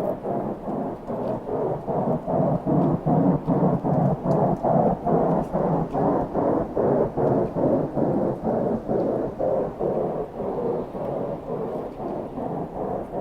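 A loud, low, pulsing rumble of unknown origin, throbbing evenly about three to four times a second without let-up.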